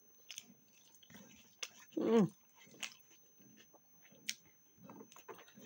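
A person chewing a mouthful of rice and dal eaten by hand, with faint wet mouth clicks and lip smacks scattered throughout. A brief voiced murmur comes about two seconds in.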